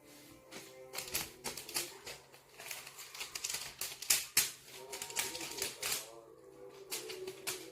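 Rapid, irregular clicking and tapping, with music faint underneath.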